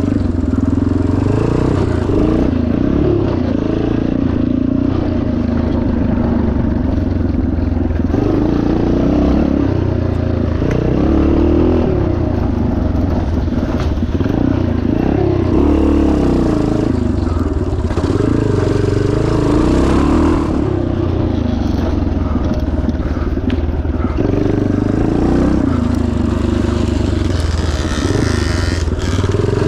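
1977 Yamaha TT500's single-cylinder four-stroke engine running hard as the bike is ridden off-road, its pitch rising and falling every few seconds as the throttle is opened and closed.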